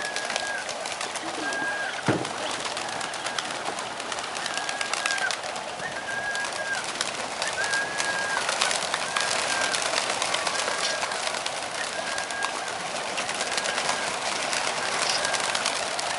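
A large flock of domestic pigeons: a dense rustle of wings and birds with cooing, over which a short high note repeats about once a second.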